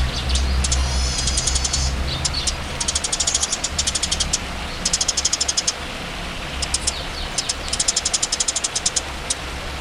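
Songbird call recording: bursts of rapid, sharp high-pitched chattering notes, about a second each and repeated several times, with a few short whistled notes near the start, over a steady low hum.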